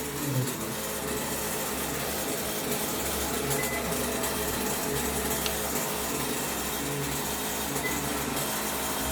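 Toshiba top-load washing machine running with a steady mechanical whir and low hum. It is the noise the owner complains of during the spin test while the technician is still repairing it.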